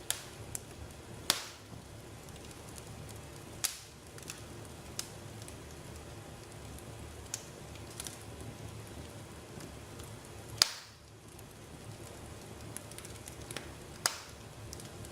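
Bonfire crackling: a steady hiss with sharp, irregular pops every second or few, the loudest about two-thirds of the way through.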